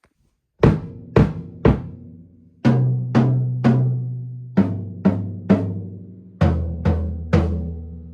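Drums of a rebuilt drum kit with new heads, struck three times each in turn, from the highest-pitched drum down to the lowest. Each hit rings on, and the lowest drum's boom trails off near the end.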